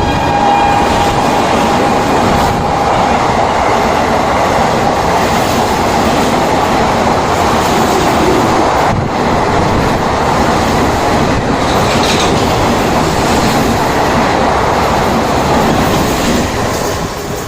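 Train passing at high speed close by: a loud, steady rush of wheels and coaches on the rails. The tail of its horn fades out over the first couple of seconds, and the rush eases near the end.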